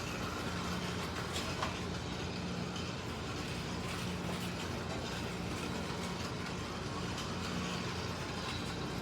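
Slot cars lapping a track: the small electric motors of two MR Slotcar Cunningham Corvettes and a Scalextric Mercedes 300 SLR whirring steadily, with a low hum that swells and fades as the cars come round.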